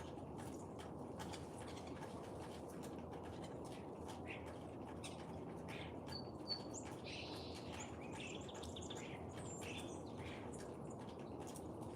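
Wild songbirds chirping and calling in short, scattered notes over a steady low background rush, with a single sharp tick about six and a half seconds in.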